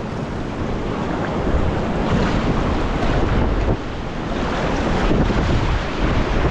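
Whitewater rushing in a creek rapid, mixed with wind buffeting the camera microphone: a steady, dense noise with a heavy low rumble.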